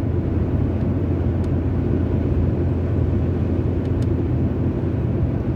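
Steady road noise of a moving car heard from inside the cabin: a low engine-and-tyre rumble with a lighter hiss above it.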